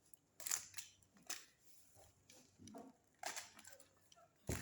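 Parcel packaging being handled: short rustles and crinkles coming and going, with a louder knock near the end.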